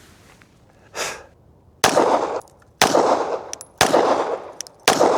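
Four 9mm pistol shots from a Glock 17, fired at a slow, even pace about one a second starting nearly two seconds in, each with a short echo.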